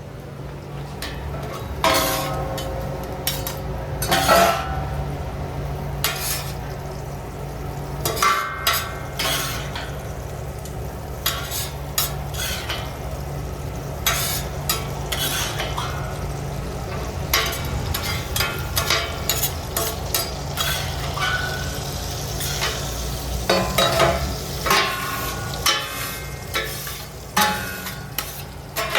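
Food frying and sizzling in a burger kitchen, with repeated clatter and scraping of metal utensils against pans over a steady low hum.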